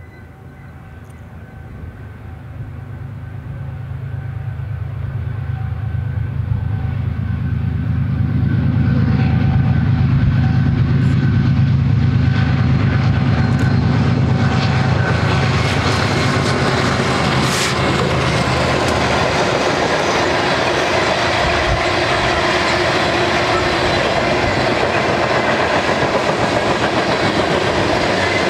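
Diesel locomotives of a BNSF freight train, GE ES44DC units with V12 engines, run ever louder as they approach and pass, their low drone dying away about two-thirds of the way through. A long string of hopper and tank cars follows, their steel wheels rolling on the rails in a steady, dense rumble.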